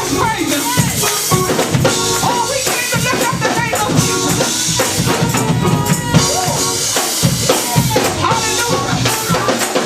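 Live gospel praise music: a drum kit keeping a steady beat, with tambourine and shakers, and voices singing and calling out over it.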